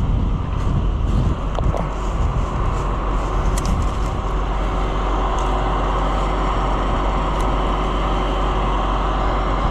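Farm tractor engine running steadily under way, with a strong low hum.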